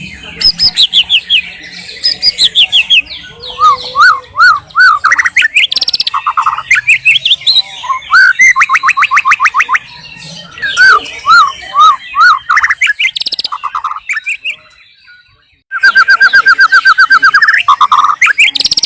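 White-rumped shama singing a loud, varied song of whistled phrases, rising and falling notes and fast repeated trills, with a short pause near the end before a long rapid trill.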